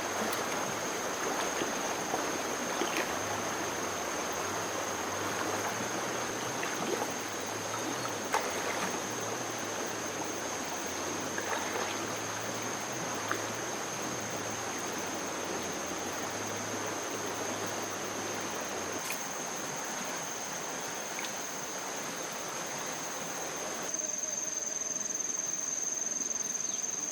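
Steady rush of flowing water, with a continuous high insect drone over it. About 24 seconds in, the water sound drops away suddenly and the insect drone is left.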